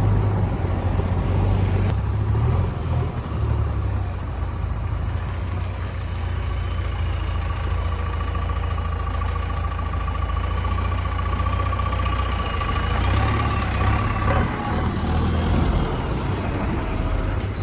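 Diesel engine of a JCB 3DX backhoe loader running steadily while it works, with a faint steady whine from about halfway through that stops shortly before the end.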